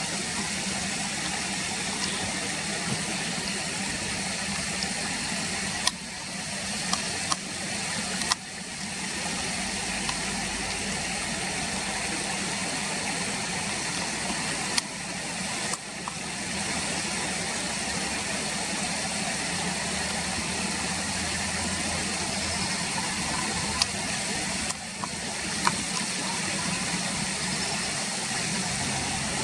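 Steady outdoor background noise with a low, even hum, broken by a few sharp clicks, several of them followed by a brief dip in level.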